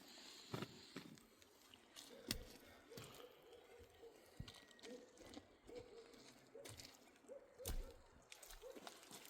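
Faint animal calls: from about two seconds in, a run of short, soft hoots, two or three a second, with a few scattered knocks, the loudest near the end.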